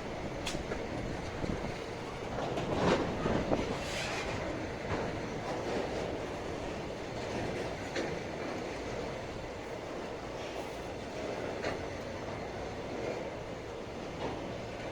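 Freight train cars rolling past on the rails, a continuous rumble with occasional sharp clicks and brief high squeals from the wheels. It swells for a second or so about three seconds in.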